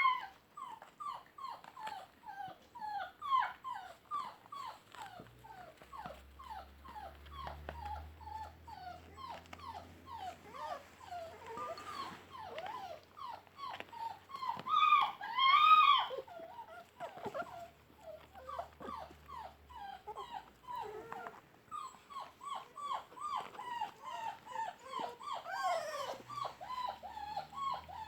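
Puppies whimpering and squeaking: many short, high cries that drop in pitch, often overlapping, with a few louder cries about 12 and 15 seconds in.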